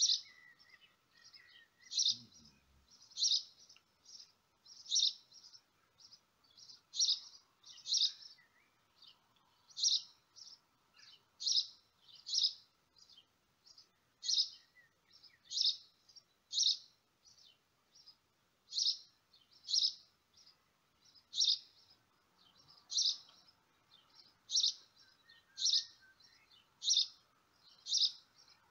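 A small bird chirping over and over: short, high chirps repeated unevenly every half-second to a second, over a faint steady hum.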